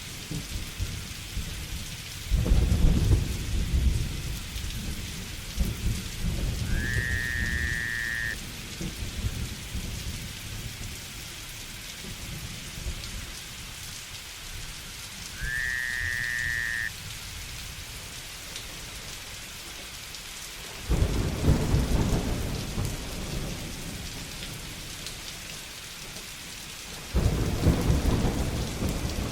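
Steady heavy rain with thunder rumbling three times, each roll starting suddenly. Twice a short, rising whistle-like call sounds over the rain.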